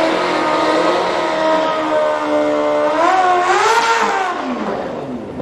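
A racing engine running hard at high revs, holding a steady pitch, then wavering up and down about three seconds in and dropping away near the end.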